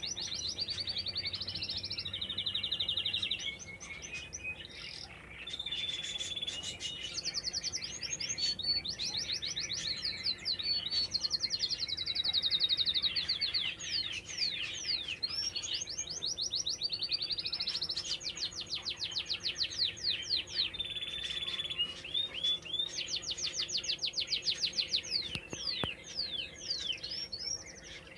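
Domestic canary singing a long, unbroken song of fast repeated trills, rolls and quick rising and falling sweeps, high-pitched throughout.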